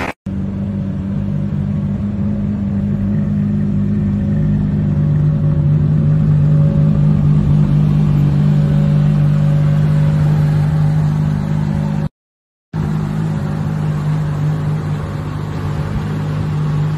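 Aston Martin One-77's V12 engine running steadily at low revs, a deep even drone that rises slightly in pitch about five seconds in. It breaks off for about half a second near twelve seconds in.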